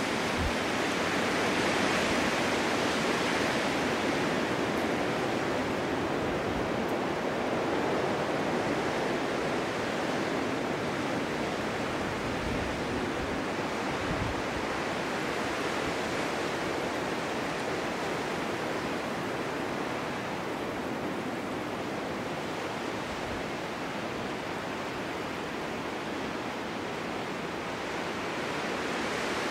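Winter wind blowing through a snow-covered forest in a snowstorm: a steady rushing noise that swells a little in the first few seconds, then slowly eases.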